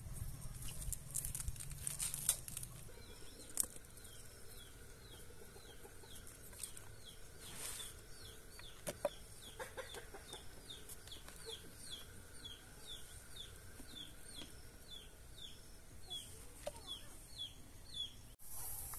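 A bird calls over and over in short falling chirps, about two or three a second, from about four seconds in. In the first few seconds and twice later come sharp clicks of a knife cutting cabbage.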